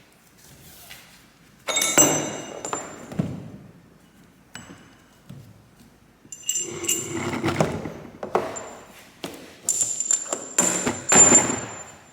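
Metal parts and tools clanking and clinking in three bouts of handling, some hits leaving a short bright ring.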